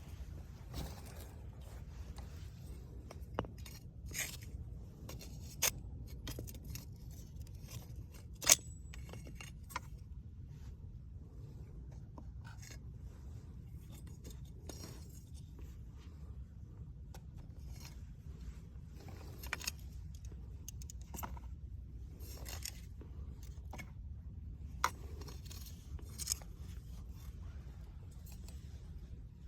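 Irregular scrapes, clicks and clinks of firewood and camp gear being handled around a metal fire pit, with one sharp knock about eight and a half seconds in, over a steady low rumble.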